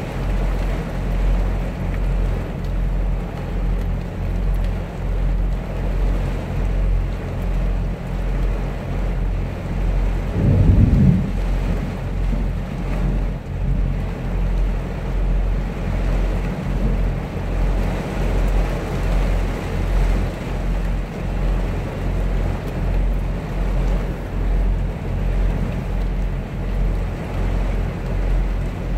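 Steady rain on a semi-truck's cab and windshield over the low, even hum of an idling diesel truck engine, with a brief low rumble of thunder about ten seconds in.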